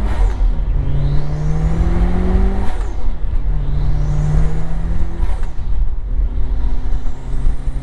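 Mitsubishi Lancer Evolution IX's turbocharged four-cylinder accelerating hard through the gears, heard from inside the cabin. The engine pitch climbs in three pulls with two upshifts between them, about three and five seconds in. A faint whistle rises as the turbo spools, and the recirculating blow-off valve lets out a loud whoosh at each shift, louder with the Injen cold air intake fitted.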